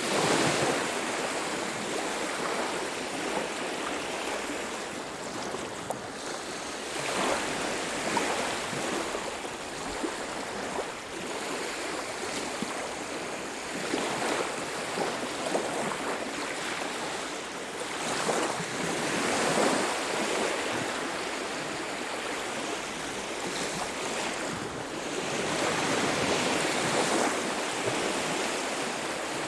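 Surf breaking on a beach, the wash swelling and easing in slow surges every several seconds.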